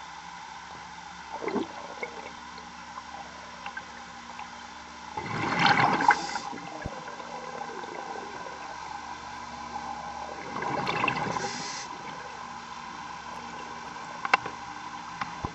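Underwater recording of a scuba diver exhaling through the regulator: two loud bursts of bubbles about five seconds apart, over a steady hum.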